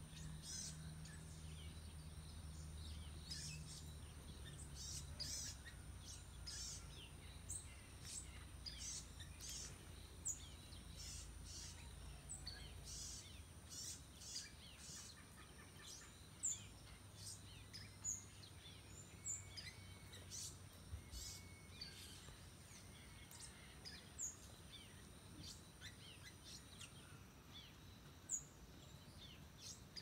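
Birds chirping and calling from a treetop: short, high chirps every second or so. Behind them are a faint steady high-pitched whine, which stops near the end, and a low rumble that fades out about halfway.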